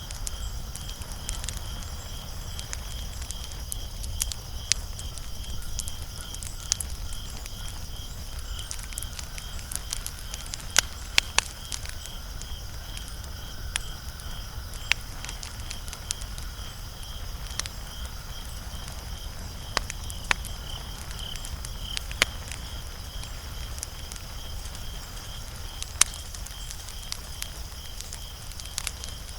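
Wood fire crackling, with sharp pops and snaps at irregular intervals over a low steady rumble.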